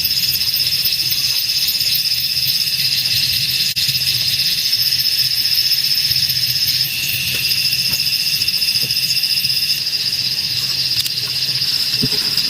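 Rainforest insect chorus: a loud, steady high-pitched shrill with a fast pulsing texture, joined by a second, lower shrill about seven seconds in.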